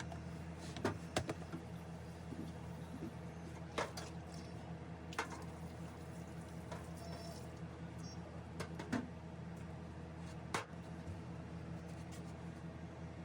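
A steady low electrical hum with a handful of light clicks and knocks scattered through it.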